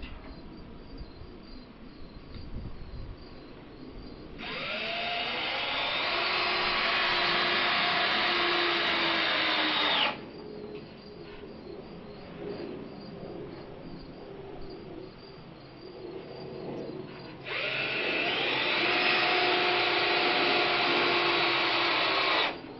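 Power drill run twice, each time for about five or six seconds: it winds up in pitch, holds a steady whine, then stops abruptly.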